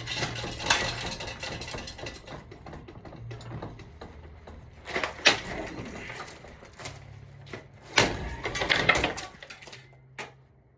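Irregular clattering and knocking from a ceiling fan being wrecked, over a low steady hum. The sounds thin out and die away near the end.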